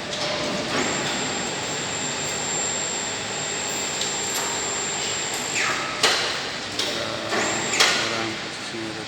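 Workshop machinery noise with a thin, high steady whine for several seconds that winds down, then two sharp metal knocks.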